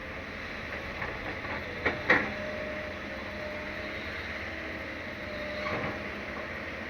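Excavator working, its diesel engine running steadily, with two sharp knocks close together about two seconds in and a smaller one near six seconds.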